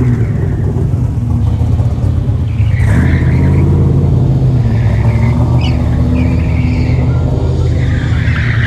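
Car engine running loud and steady under load, with several short tyre squeals, the last and longest starting near the end.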